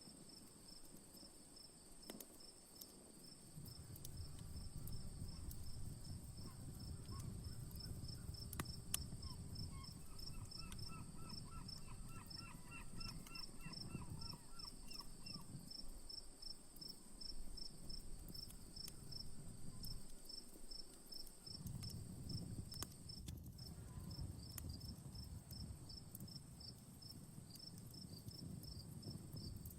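Crickets chirping in a fast, steady pulse over a high, even insect drone, with a few faint crackles and pops from an outdoor campfire. About ten seconds in, a short run of lower repeated notes joins in for a few seconds, and a low rumble comes and goes beneath.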